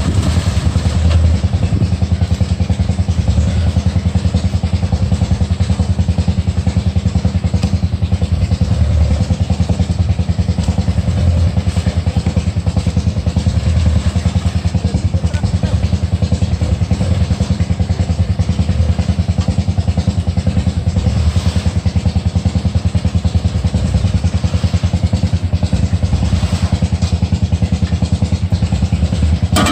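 Truck engine running steadily with a fast, even beat.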